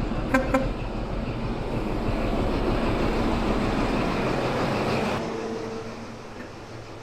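Heritage railway train running: a steady rumble that swells, with two short squeaks near the start. The rumble drops off sharply about five seconds in, leaving a brief steady hum and a quieter rumble.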